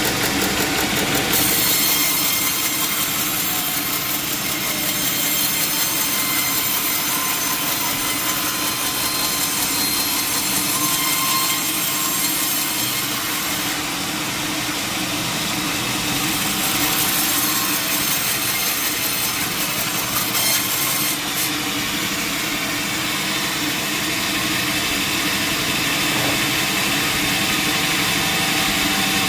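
Sawmill saw cutting steadily through a log, a loud continuous sawing sound.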